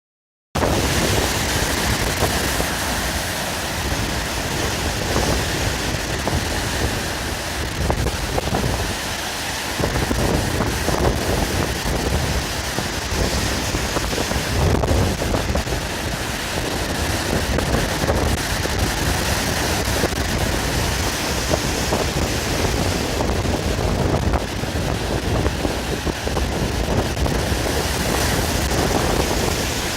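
Sea waves surging and breaking against a breakwater, with strong wind buffeting the microphone in irregular gusts.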